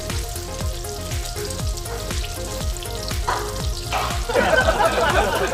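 Breaded chicken pieces deep-frying in hot oil in a frying pan, sizzling steadily, with a louder patch about four seconds in. Background music with a steady beat plays along.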